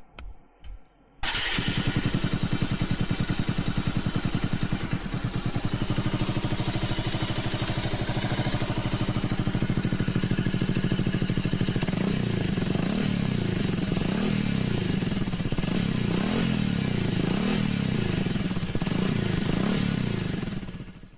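Bajaj Avenger 220 Cruise's single-cylinder four-stroke engine running through its stock exhaust. It comes in abruptly about a second in and idles with an even, pulsing exhaust note. From about halfway the note rises and falls with repeated throttle blips until it cuts off just before the end.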